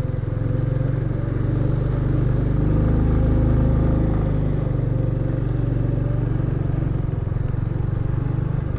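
Motorcycle engine running steadily at low riding speed, getting a little louder about halfway through and easing back.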